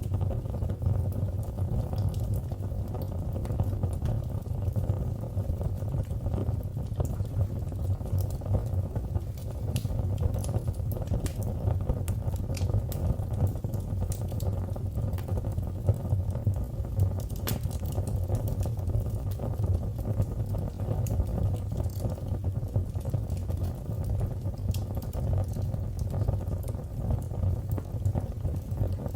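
Fire burning in a fireplace: a steady low rumble of flames with scattered small crackles and pops, one sharper pop a little past the middle.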